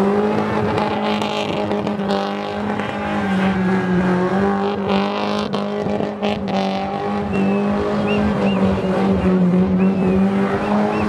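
Car engine revved hard and held at high revs while the car drifts on loose dirt, its pitch climbing in the first second and then staying steady. Short high chirps repeat over the last few seconds.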